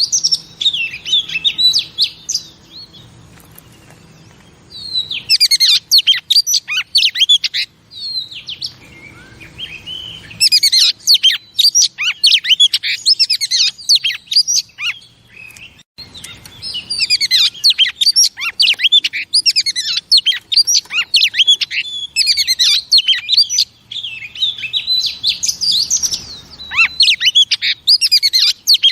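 Female Oriental magpie-robin singing: phrases of rapid, varied high chirps and whistles broken by short pauses. This is the hen song used to excite male magpie-robins.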